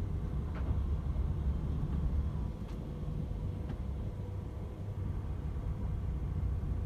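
DAF XF 510 truck driving at motorway speed: a steady low rumble of engine and road, with a faint steady whine over it.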